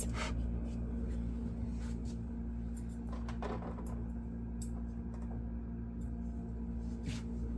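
Faint, scattered knocks and clinks of bottles and jars being set on refrigerator shelves, over a steady low hum.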